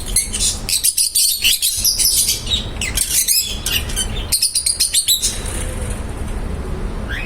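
Pet lovebirds chirping in rapid high-pitched bursts that thin out a little after halfway, over a steady low hum.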